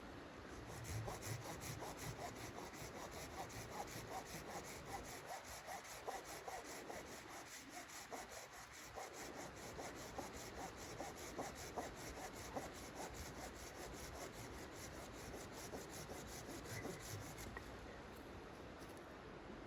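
Hand saw cutting through wood in a fast, even back-and-forth rhythm of rasping strokes, stopping near the end.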